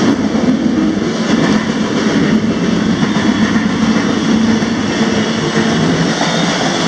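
Loud, steady rumble and roar of a freight train rolling along, heard from a rider's spot on the end platform of a covered hopper car.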